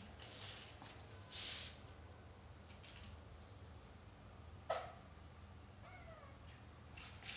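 Crickets trilling steadily at a high pitch, stopping for about half a second near the end. About two-thirds in there is a short sharp call that falls in pitch, and a fainter falling call follows soon after.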